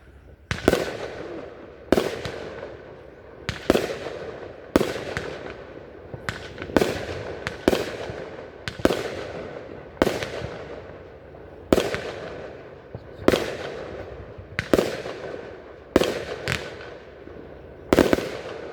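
Fireworks display: a steady run of sharp bangs about once a second, each trailing off in echo.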